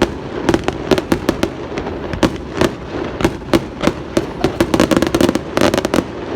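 Fireworks going off in a rapid, irregular barrage of sharp cracks and bangs over a continuous rumble, with a dense cluster of cracks about five to six seconds in.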